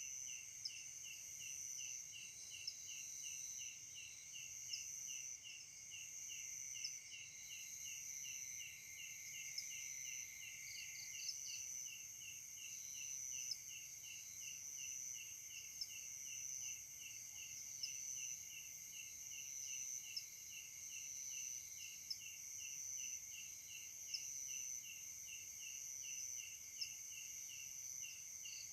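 Night insect chorus: a steady high-pitched buzz, with an insect call pulsing about three times a second over it and short sharp chirps every couple of seconds.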